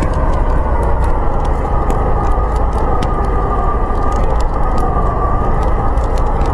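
Snowstorm wind howling steadily, with the faint crackle of a wood fire over it.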